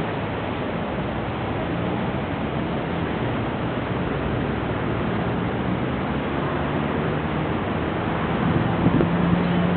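Steady noise of a thunderstorm, rain and wind with no single event standing out, and a low steady hum that grows louder near the end.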